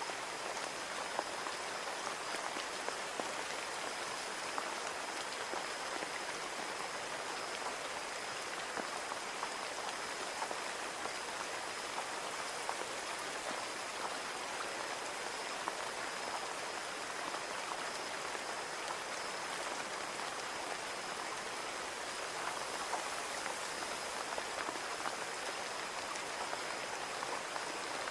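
Steady rain falling on a window, an even hiss of rainfall with many small drops ticking on the glass, and a faint high steady tone running under it.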